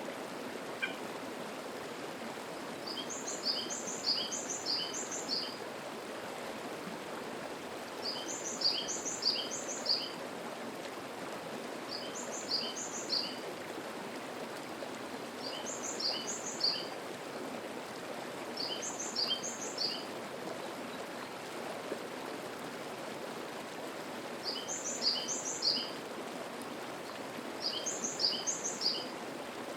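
Mountain stream babbling steadily, with a songbird repeating a short, high phrase of four or five quick notes about every three to four seconds.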